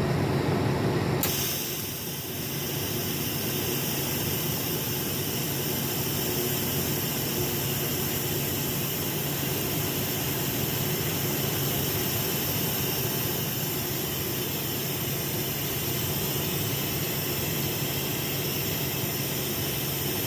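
TIG welding arc on a stainless steel exhaust dump tube: a steady high hiss that strikes about a second in and cuts off sharply near the end, laying one full wrap of weld around the tube. A steady low hum runs underneath.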